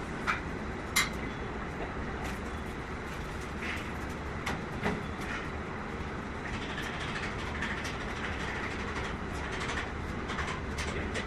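Factory-floor machinery running with a steady hum and rumble, broken by scattered sharp metallic clanks and ticks; the two loudest clanks come within the first second.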